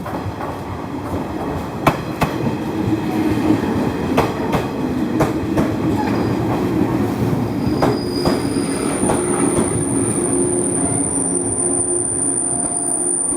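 Train running on the rails: a steady rumble with sharp clicks of the wheels over rail joints at uneven spacing, joined about two-thirds of the way through by a steady high wheel squeal.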